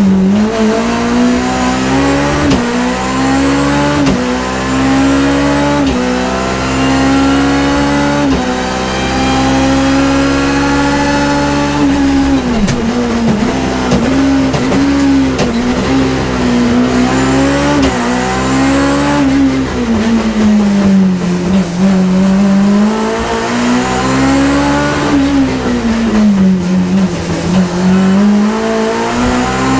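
BMW E30 M3's four-cylinder engine at high revs, heard from inside the cockpit under hard acceleration. It climbs in steps with short dips at each upshift. Several times the revs fall away on braking and downshifts, then build again.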